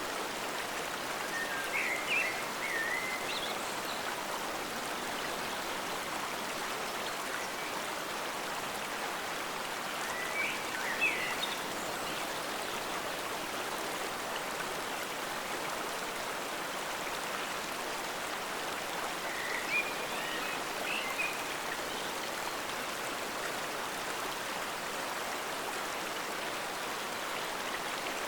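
Forest stream flowing steadily, an even rush of water, with three brief chirps about nine seconds apart.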